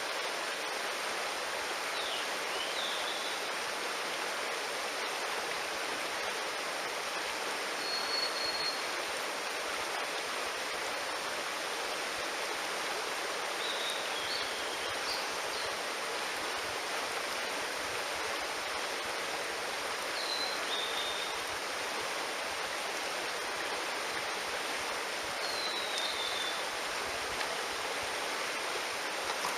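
Mountain stream rushing steadily, with a few brief high calls, some falling in pitch, about every six seconds.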